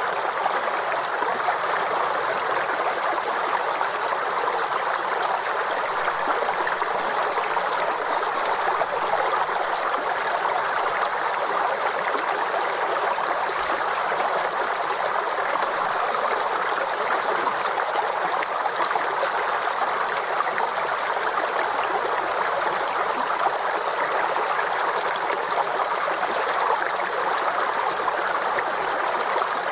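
Forest stream running over rocks, a steady babbling and trickling of water that keeps an even level throughout.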